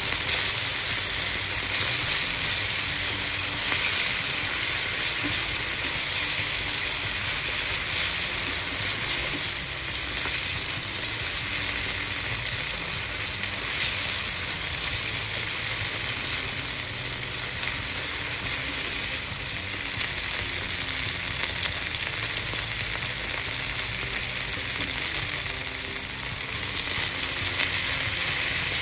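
Ground pork, onion and ketchup sizzling steadily in a hot frying pan while being stirred and turned with a spatula.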